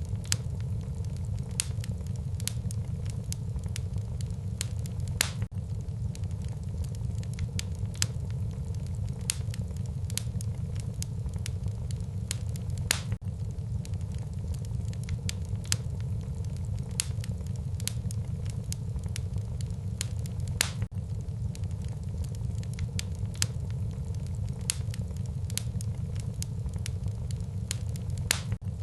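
Wood fire burning in a fireplace, crackling with frequent, irregular sharp pops over a steady low rumble.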